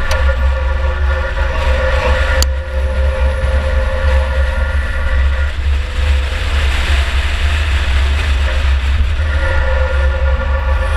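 2004 Chevy Impala enduro race car running under way, a heavy low rumble with a steady whine that drops out about halfway and comes back near the end. Two sharp knocks, one at the start and one about two and a half seconds in.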